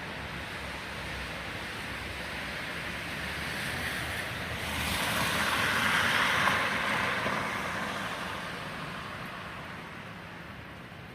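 A vehicle passing, its tyre hiss swelling to a peak about six seconds in, then fading away.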